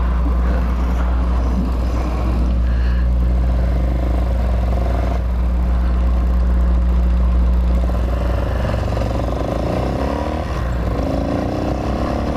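Hawk 250 single-cylinder four-stroke motorcycle engine running steadily while riding along. About eight seconds in, its steady note breaks up and the pitch starts shifting. The owner says the carburetor is still not working 100%.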